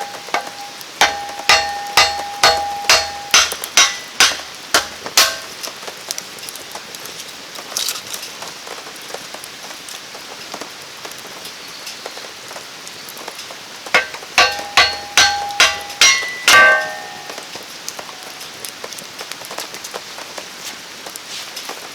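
Rain falling steadily, with two runs of sharp, regular knocks, about two to three a second, each with a brief ringing tone. One run comes near the start and the other after a pause of about nine seconds.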